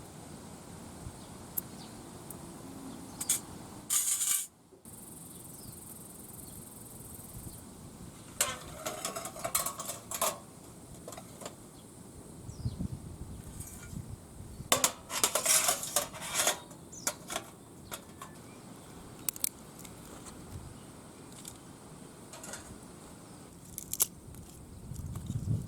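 Small metal parts clinking and rattling as they are handled, in several short clusters of sharp clinks with scattered single clicks between them.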